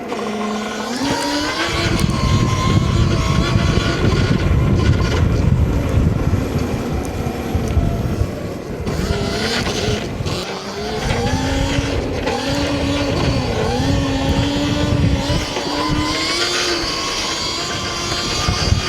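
Stomp Haywire electric dirt bike's motor whining, its pitch rising as the bike speeds up and wavering with the throttle, under heavy wind buffeting on the helmet microphone. The wind eases briefly about ten seconds in.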